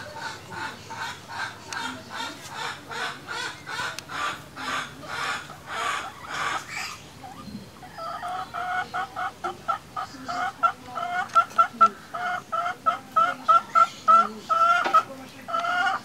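A bird calling over and over in a steady series of clucking calls, about three a second. After a short break about halfway through, the calls come back as clearer, shorter notes, a little faster and louder.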